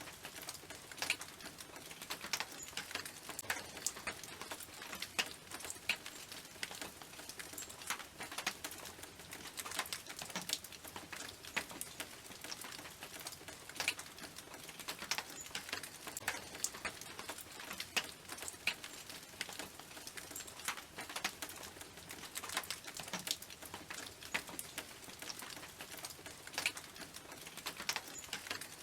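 Rain pattering on a tin roof: a steady hiss dotted with many sharp, irregular drop ticks on the metal.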